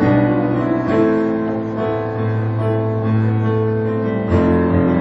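Keyboard playing slow, sustained chords, with the harmony shifting about a second in, again a little past two seconds, and again near the end.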